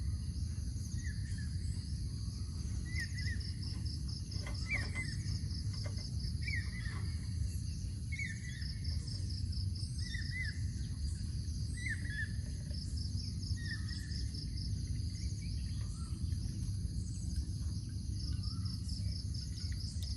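Forest ambience: insects calling in long pulsing trains, and a bird repeating a short curved call every second or two, fading after the first half, over a steady low rumble.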